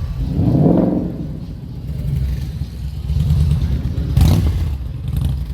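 Car engine revving over a steady low rumble: a rev rising in pitch within the first second, then a second, sharper burst about four seconds in.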